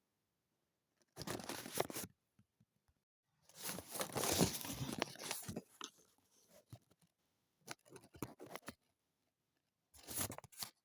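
Paper being worked by hand, rustling and crackling in four separate bouts with silence between them. The longest and loudest bout comes about four seconds in.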